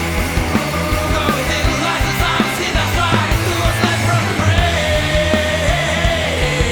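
Grunge-style rock band playing loud: distorted electric guitar, bass guitar and a steady drum beat, with a sustained melodic line that bends in pitch above them.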